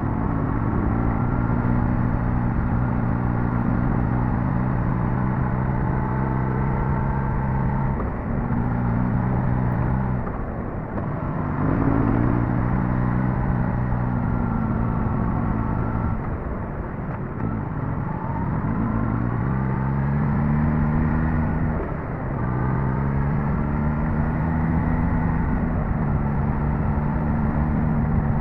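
Suzuki GSX-S1000GT's inline-four engine running under way, its note holding steady, then dipping and climbing back up three times as the throttle is eased and reopened.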